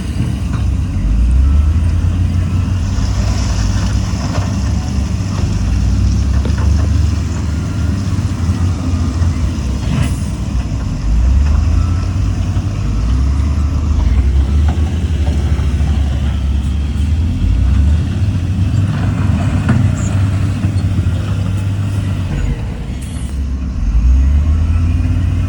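Heavy diesel engines of earth-moving machinery running, a deep rumble that swells and eases with the load. A brief hiss comes about three seconds in.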